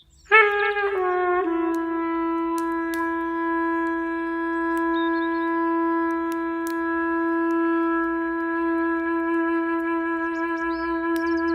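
Clarinet playing a few short notes that step down in pitch, then one long held note that wavers slightly toward the end. Faint bird chirps and a few light clicks sit underneath.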